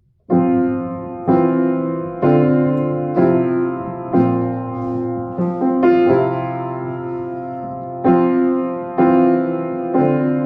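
Solo piano playing slow chords, a new chord struck about once a second, each one fading before the next.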